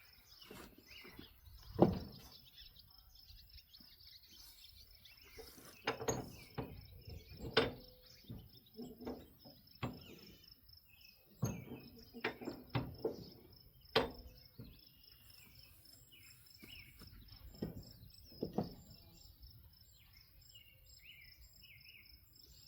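Insects trilling steadily at a high pitch, with birds chirping, broken by about a dozen scattered knocks and clunks of hands-on work on a trailer wheel. The loudest knock comes about two seconds in.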